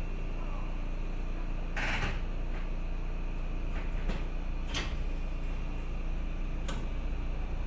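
Electric commuter train running, a steady low rumble with a few sharp knocks and clacks over it. The loudest comes about two seconds in, with smaller ones around four, five and seven seconds.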